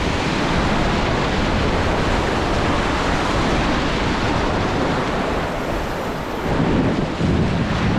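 Steady loud rush of river whitewater, with wind buffeting the microphone; it swells louder twice near the end.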